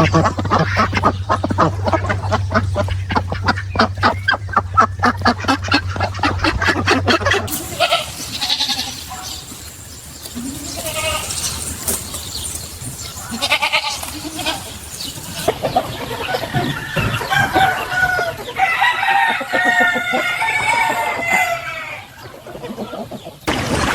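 Chickens clucking and calling in several short clips cut one after another: rapid clucks at about five a second, then scattered calls, then longer wavering calls near the end.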